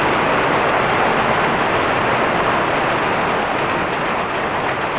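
Heavy tropical rain pouring down, a dense, steady hiss of rain on surfaces.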